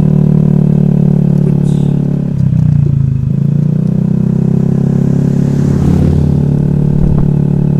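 Honda Vario scooter's single-cylinder engine running under way, its note dipping briefly about two and a half seconds in and then settling back to a steady drone.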